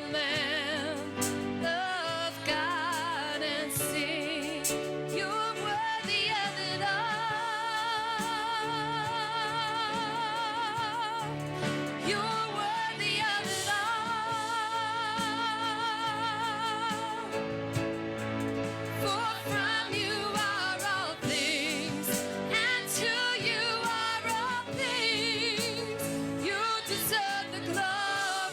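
Gospel-style church worship music: singing with long, wavering vibrato notes over a sustained band accompaniment.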